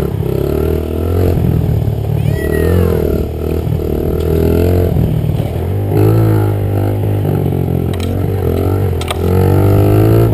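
Honda 50 dirt bike's small single-cylinder four-stroke engine being ridden, revving up and easing off again and again, its pitch rising and falling with the throttle. Two sharp clicks come about eight and nine seconds in.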